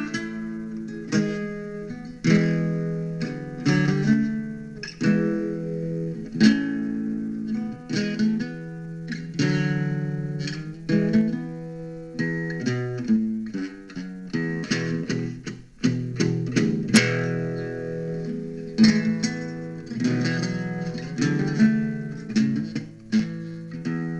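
Guitar playing an instrumental piece, a steady run of plucked notes and chords that each ring and fade.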